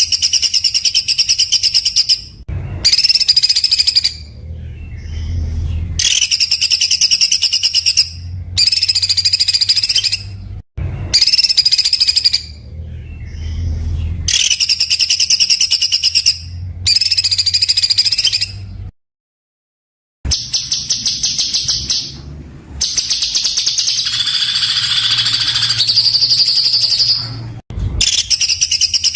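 Recorded songbird song in harsh, rapid-fire bursts of tightly packed repeated high notes, each burst lasting a second or two with brief pauses between, cut off for about a second past the midpoint before a longer burst.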